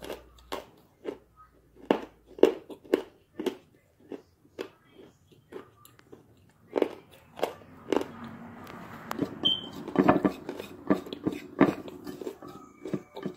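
A person biting and chewing something crunchy close to the microphone: a run of sharp, separate crunches about twice a second, turning into denser, grittier chewing in the second half.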